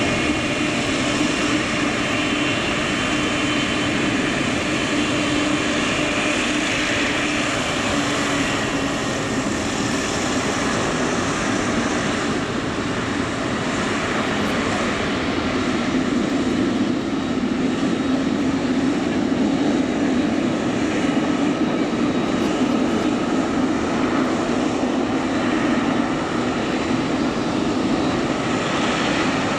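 Boeing 777 freighter's twin GE90 turbofan engines at low taxi thrust, a steady jet roar with a faint high whine running over it.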